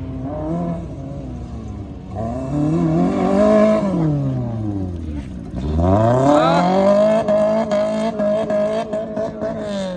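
Rally car engine revving hard under acceleration: its pitch climbs, drops away about halfway through, then climbs quickly again and holds high before easing off near the end.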